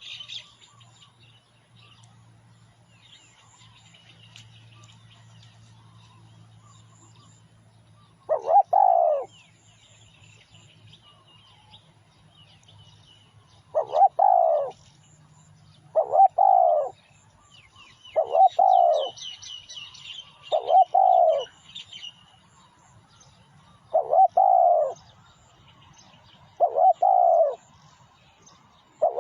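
Spotted dove cooing: about eight short coo phrases, each a quick falling note, repeat every two to three seconds from about eight seconds in. Small birds chirp faintly and higher up at the start and again around the middle.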